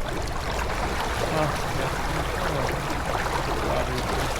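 Water rushing steadily along the hull of a J/24 keelboat under sail.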